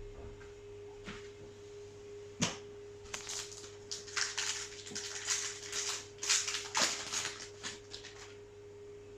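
Trading-card booster pack being opened and its cards handled: a run of crisp, irregular crinkles and clicks over a steady faint hum.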